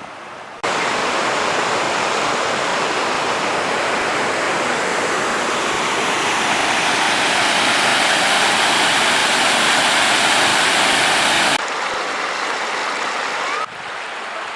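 Waterfall rushing, a steady, dense roar of falling water that jumps in abruptly about half a second in and drops to a lower, duller level twice near the end as the recording cuts.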